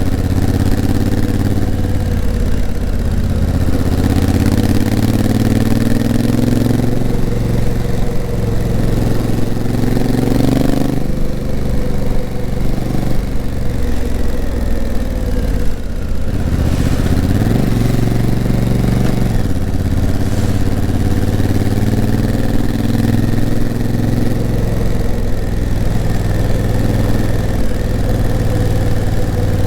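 Honda CRF1000L Africa Twin's 998 cc parallel-twin engine running under way on a climbing mountain road. Its revs rise several times and drop back, with a quick dip and swoop in revs a little past halfway, over steady rushing wind and road noise.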